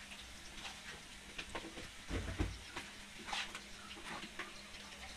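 Onions and garlic sizzling faintly in oil in an electric skillet, with small clicks and knocks of plastic spice jars being handled and opened. A dull low thump comes about two seconds in.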